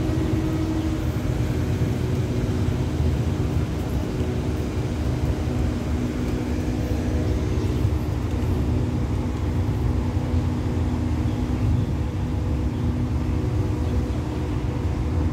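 Diesel-hauled passenger train running steadily: a low rumble under a steady engine hum.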